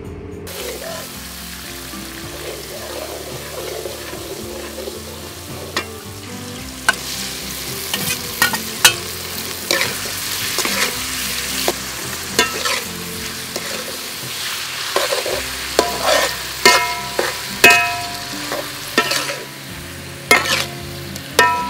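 Shrimp and minced garlic sizzling in hot oil in a metal wok, stirred with a metal ladle that scrapes and clinks against the pan. The sizzling gets louder about a third of the way in, with frequent sharp scrapes and clanks from then on.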